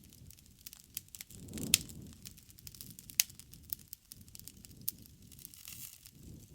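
Wood campfire crackling, with many irregular sharp pops over a low flame rumble. The two loudest pops come a little under two seconds in and about three seconds in.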